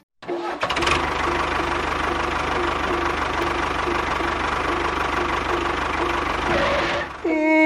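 A machine running steadily and loudly, with a pulsing tone about three times a second, cutting off about seven seconds in; right after it comes a sound that falls steadily in pitch.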